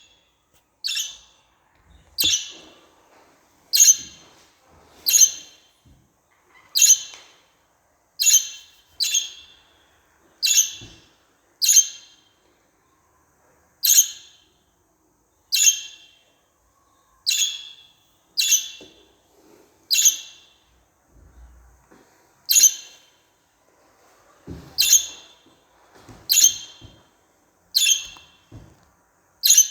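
Budgerigar giving short, loud, sharp calls, one about every second in a steady series with a brief pause about two-thirds of the way through.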